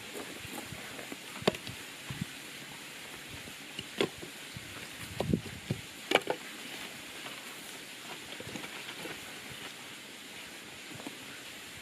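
A few short, sharp knocks and clicks, scattered and irregular, over a steady outdoor background hiss.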